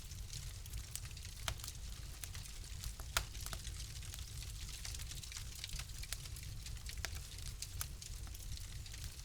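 Wood fire crackling in a fireplace: a steady run of small sharp pops and snaps, with a louder pop about three seconds in, over a low steady rumble.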